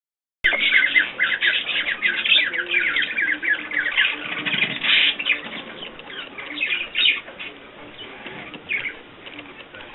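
Small pet birds twittering and chirping in a rapid, overlapping chatter that starts abruptly about half a second in, busiest in the first half and thinning out toward the end.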